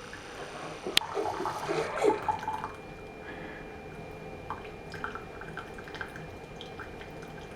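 Hot water from a Hamilton Beach FlexBrew single-serve coffee maker trickling and dripping through a K-cup into a cup during brewing, with a sharp click about a second in.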